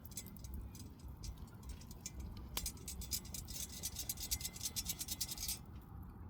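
Wood campfire crackling: quick, irregular snaps and pops over a low steady rumble.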